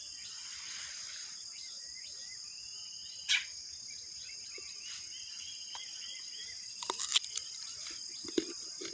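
Steady high-pitched insect chorus with small birds chirping faintly over it. A sharp click about three seconds in and a quick cluster of clicks around seven seconds.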